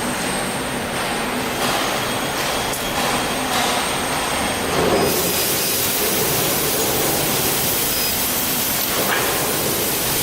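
Steady mechanical rumble and hiss of running machinery, turning brighter and hissier about five seconds in.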